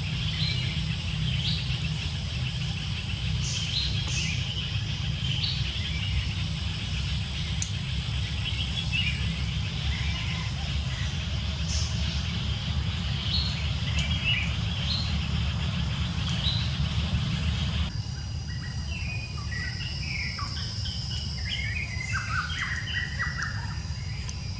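Wild birds chirping in short, scattered calls over a steady low rumble. About eighteen seconds in, the rumble drops and a busier run of quick chirps follows.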